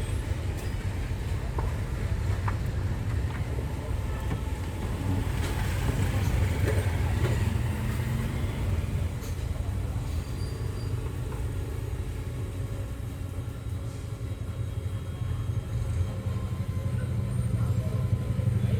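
Vehicle on the road, a steady low rumble that grows louder near the end.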